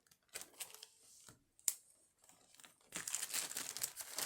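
A few light clicks and one sharp tick, then a small plastic bag crinkling steadily from about three seconds in as a jewelry piece is bagged.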